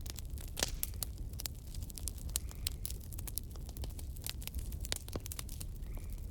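Wood logs burning in a fireplace: irregular crackles and sharp pops over a steady low rumble of flame.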